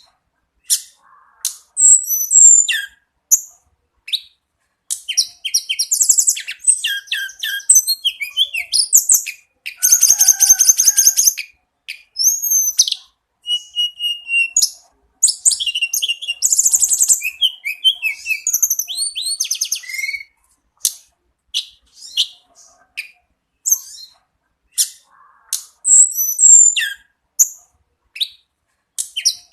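Tledekan gunung singing in full song: rapid, varied high-pitched phrases and trills that come in bursts a few seconds long, with short pauses between them.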